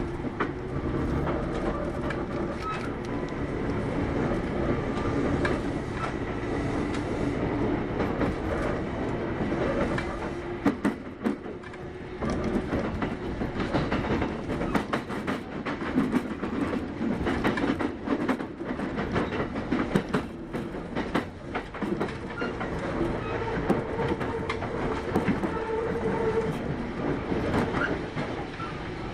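Kintetsu 8810 series electric train running at speed, heard from inside the car: a steady rumble of wheels and motors with a faint steady whine. Through the middle, a run of sharp clicks and knocks from the wheels passing over rail joints and points.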